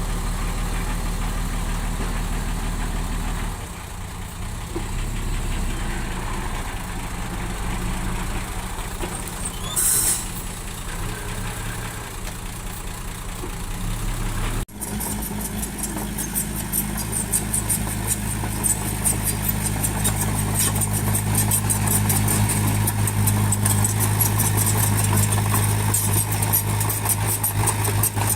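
Diesel engine of heavy earthmoving machinery running steadily, with a short hiss about ten seconds in. Halfway through the sound cuts abruptly to a louder engine with a fast, rattling clatter over it.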